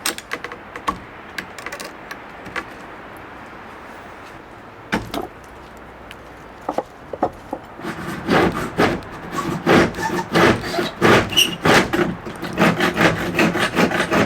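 A few scattered knocks on wood, then from about eight seconds in a fast run of scraping strokes on wood, about three a second, as the top rail of a wooden cabin frame is worked off by hand.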